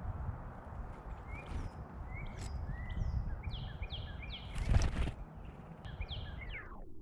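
Small songbirds calling in a quick run of short, downward-sliding chirps, over a steady low rumble. One loud thump, the loudest sound, comes about five seconds in.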